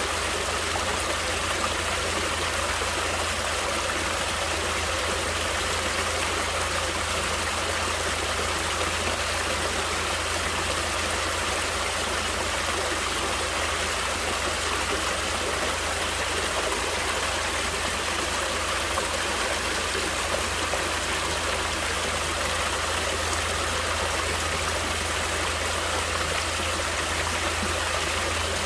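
Natural stream water flowing steadily, an even, unbroken water noise with no pauses.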